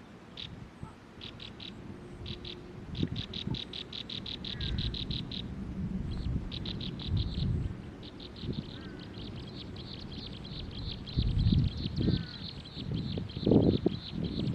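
A bird giving rapid runs of repeated high notes, about eight to ten a second. The runs stop and start again several times, then the last one runs on. Low thuds and rumble join in near the end.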